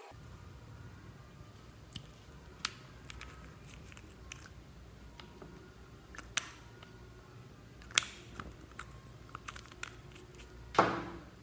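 Slime being squeezed and worked by hand, giving scattered sticky clicks and pops, with a louder squelch near the end.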